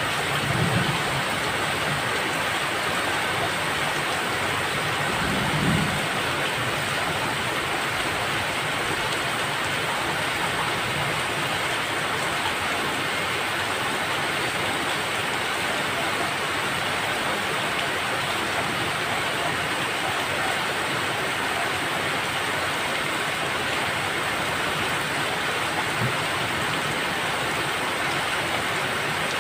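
Steady, dense rainfall, an even hiss of rain falling without let-up, with a couple of brief low rumbles in the first six seconds.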